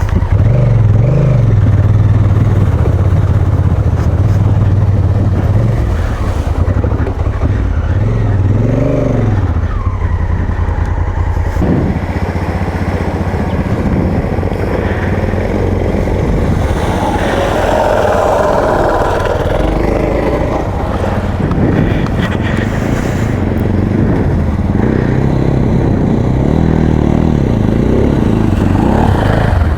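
Adventure motorcycle's single-cylinder-style engine running under way, the revs rising and falling as the rider works through the gears.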